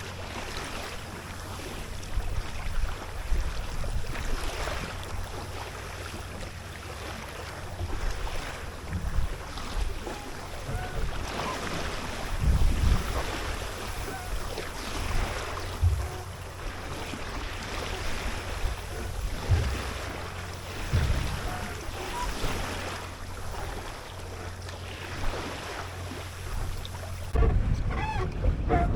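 Small sailboat under way: water washing and splashing along the hull, with wind gusting over the microphone in low buffeting thumps.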